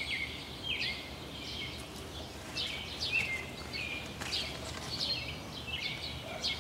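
Birds chirping: short, high calls repeating every second or so over a faint steady outdoor background.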